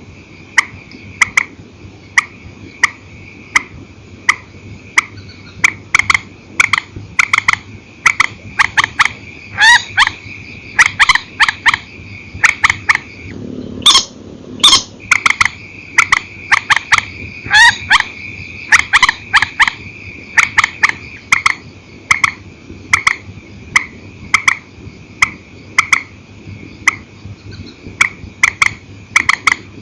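Grey-headed swamphen calling: a long series of short, sharp notes, some single and some in quick pairs, with a few louder drawn-out calls. A steady high-pitched hum runs behind them and breaks off briefly about halfway through.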